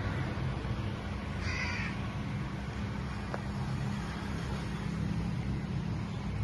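One short bird call, about half a second long, about a second and a half in, over a steady low background rumble.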